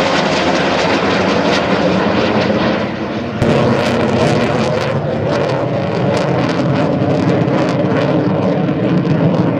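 An F-100F Super Sabre's J57 turbojet engine making a loud flyby. The jet noise steps up suddenly about three and a half seconds in and turns rough and crackling.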